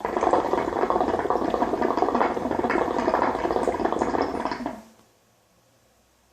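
Hookah water bubbling and gurgling in the base as someone draws a long pull through the hose for about five seconds, then stops suddenly.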